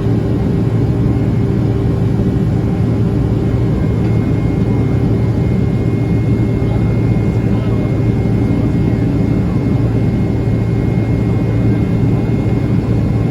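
Steady jet engine and airflow rumble heard inside the cabin of a Boeing 767-300ER, with faint steady hums over it and no change in level.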